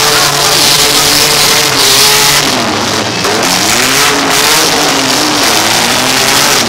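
Demolition derby cars' engines revving, their pitch rising and falling repeatedly, over a loud, dense background of engine noise.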